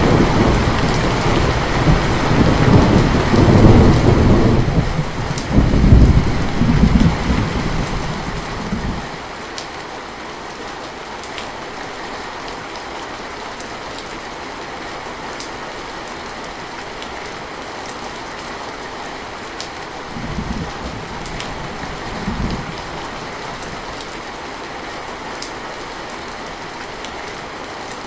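Steady rain falling with thunder: a long, loud rumble that fades out around nine seconds in, then two brief, softer rumbles near the twenty-second mark. Occasional sharp drips stand out over the rain.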